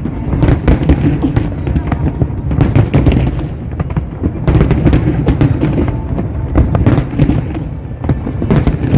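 Aerial fireworks going off in rapid volleys of sharp bangs and crackles over deep booms, easing for a moment near the end before another volley starts.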